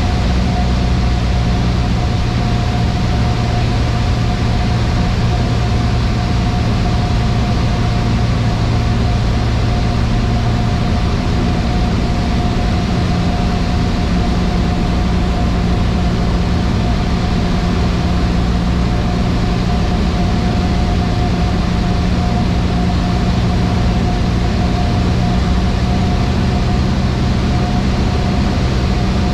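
Cessna 152's four-cylinder Lycoming engine and propeller running steadily in flight, a constant loud drone with a hum heard inside the cockpit. The pitch shifts slightly about a third of the way in.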